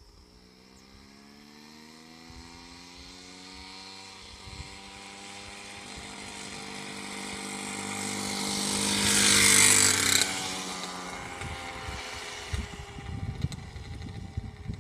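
Coleman mini bike's small gas engine approaching under throttle, rising steadily in pitch and loudness, passing close about nine to ten seconds in, then falling in pitch and fading as it rides away.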